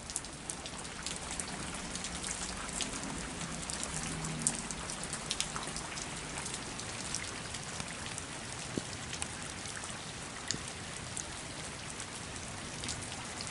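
Heavy rain falling steadily, an even hiss with frequent sharp ticks of drops striking close by.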